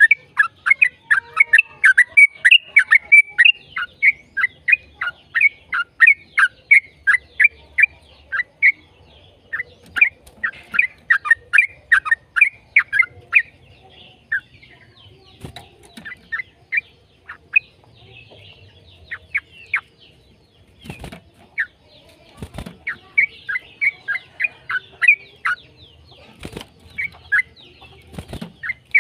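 Yellow-vented bulbul (trucukan) singing a fast chattering song of short downslurred notes, several a second, in long runs broken by brief pauses. A few dull knocks come in the second half.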